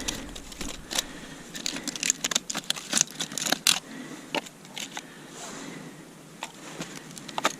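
Dry sticks and resinous pine kindling being handled and laid for a campfire: a run of short, sharp clicks and knocks, thickest in the first half, then sparser.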